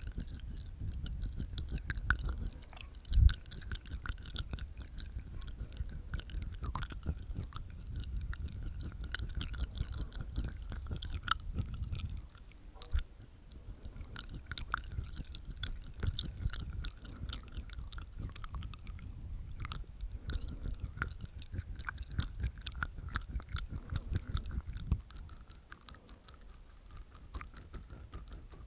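Close-miked ASMR mouth sounds made inside the mouth: a dense run of small wet clicks and smacks from the tongue and teeth, with one louder thump about three seconds in, and softer toward the end.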